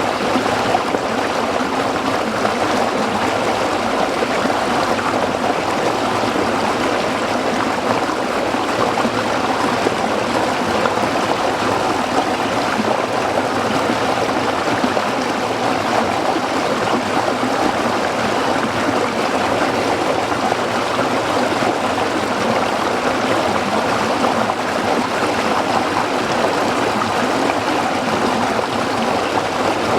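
A small stream of water flowing and trickling over rocks, a steady babble with no pauses.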